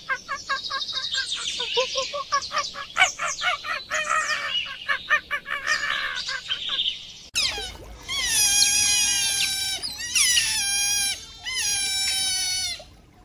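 Birds chirping and singing, many quick repeated notes. About seven seconds in, it cuts to a different animal giving three drawn-out calls in a row, each sliding down in pitch.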